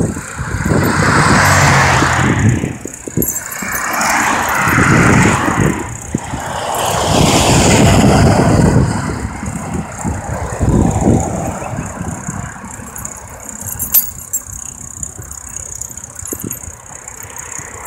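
Rushing wind and road traffic noise heard while riding a bicycle, rising and falling in several swells, with one sharp click about 14 seconds in.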